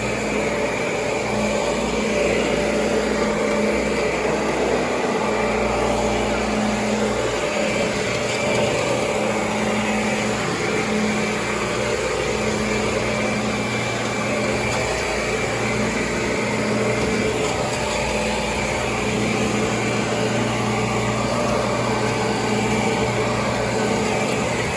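Kirby G4 upright vacuum cleaner running steadily: a constant motor drone with a high whine over the rush of air.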